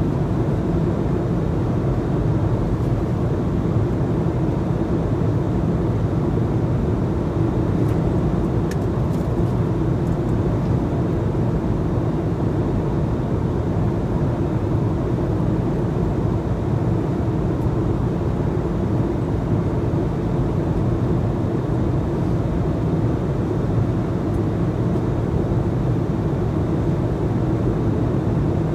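Steady low drone inside a passenger airliner's cabin in flight: engine and airflow noise, even and unchanging.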